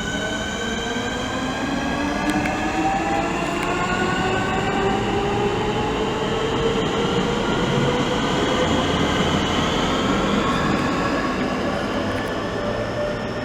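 A pair of coupled Class 465 Networker electric multiple units pulling away and accelerating, their traction motors giving a whine of several tones that climbs steadily in pitch over the rumble of the train.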